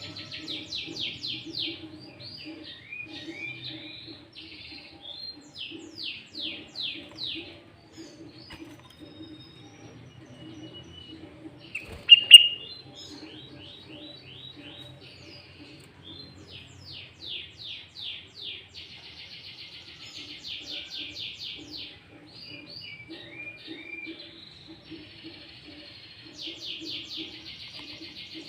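Sooty-headed bulbul (kutilang) singing on and on in rapid trills and runs of quick down-slurred notes, its song filled with phrases copied from the green leafbird (cucak ijo). One sharp, loud note about twelve seconds in.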